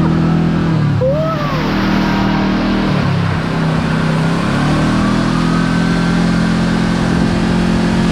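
Kawasaki KRX4 1000 side-by-side's engine running under way. Its pitch drops about a second in as it slows, stays low for a few seconds, then climbs again about halfway through and holds steady.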